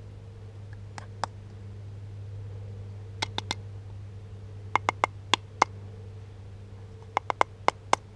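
Golf balls clacking against one another in short clusters of sharp, hard clicks (two, then three, then five, then six) as the cache container full of them is handled.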